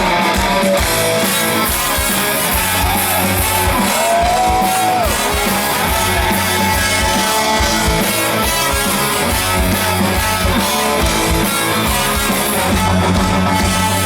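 Live rock band playing an instrumental intro with guitar and a steady beat.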